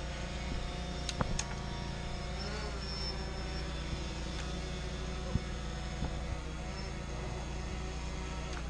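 Quadcopter drone (DJI Phantom) hovering, its rotors giving a steady many-toned buzz whose pitch wavers briefly about two and a half seconds in, over a constant low hum.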